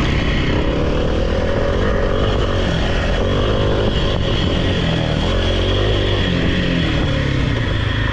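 Off-road vehicle engine running steadily, its revs rising and falling a little.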